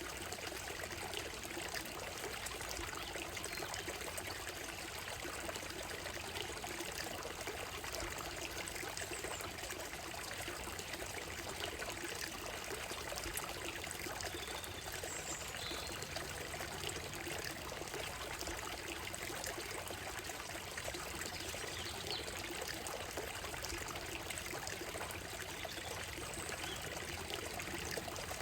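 Small stream running and trickling over stones on a gravel bed, a steady even rush, with a few faint high bird chirps now and then.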